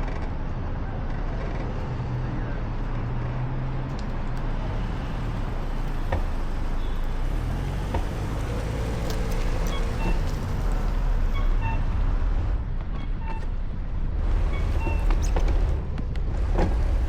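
Road traffic: motor vehicles running past with a steady low rumble, and a few faint clicks and short tones over it.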